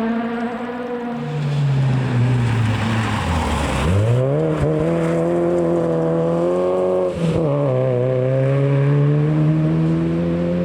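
A rally car's engine coming off the throttle as its revs fall, then accelerating hard from about four seconds in, with a sharp drop in revs at a gear change about seven seconds in before it pulls and climbs again.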